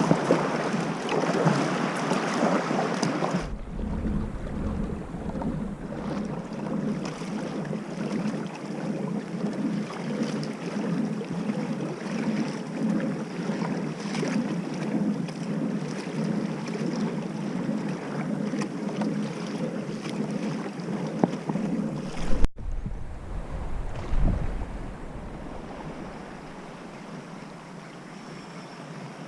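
Water sloshing and splashing around a kayak, with wind buffeting the microphone. The sound changes abruptly twice, as if cut.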